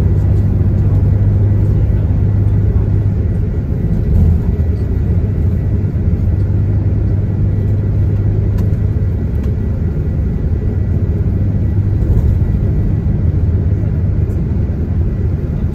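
Diesel bus running, its engine and road noise heard inside the passenger cabin as a steady low rumble.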